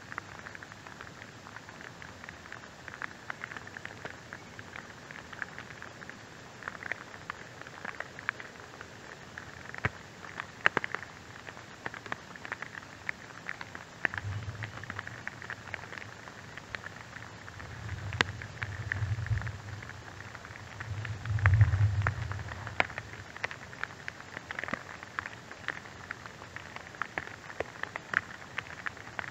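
Rain falling on dead leaves and grass: a steady patter with many separate drops tapping. Around the middle a low rumble swells twice, the second time loudest.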